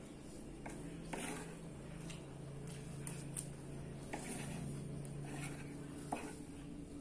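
Close-up chewing of fried rice and noodles, with soft wet mouth sounds and a few light clicks of a metal spoon and fork against the food on the table.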